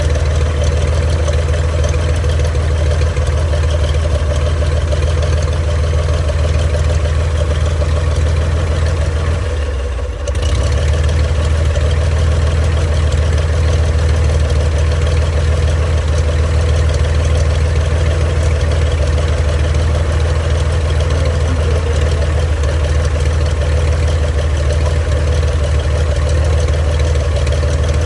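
A 1948 Cessna 170's piston engine and propeller running steadily at a low, idle-like speed. The sound briefly dips about ten seconds in, then returns to the same steady drone.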